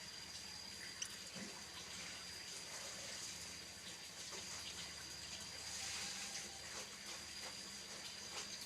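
Running or splashing water, a steady hiss with a faint steady high-pitched tone above it and a few light ticks.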